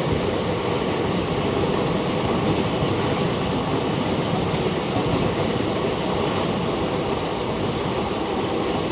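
Moving train running steadily along the track, an even rumble of wheels and carriages.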